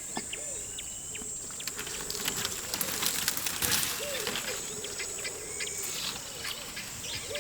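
Natural bush ambience: a steady high buzz of insects, with scattered short bird chirps and repeated low wavering bird calls.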